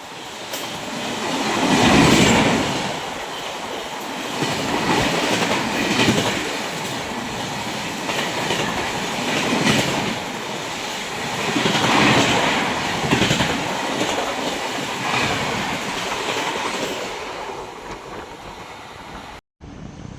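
Indian express train passing at full speed, with the wheels of coach after coach clattering on the rails in repeated surges. The sound fades near the end and cuts off abruptly.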